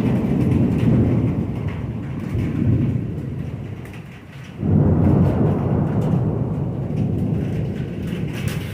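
Thunder rumbling and fading, then a second loud thunderclap breaks in about halfway through and rolls on, slowly dying away.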